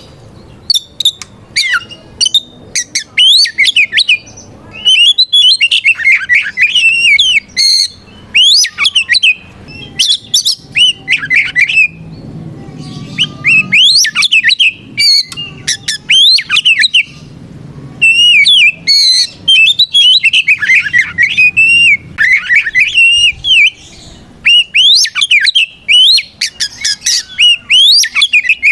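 Oriental magpie-robin (kacer) singing loudly in fast clusters of varied whistles, chirps and harsh notes with brief pauses between them: the full 'ngeplong' fighting song a male uses to call out a rival.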